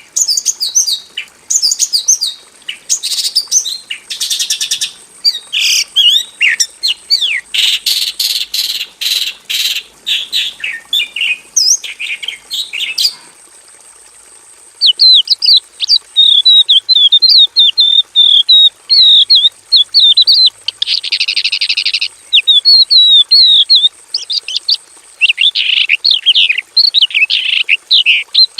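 Javan bushlark singing a long, varied song of quick chirps, slurred notes and buzzy trills, with a short break about halfway through.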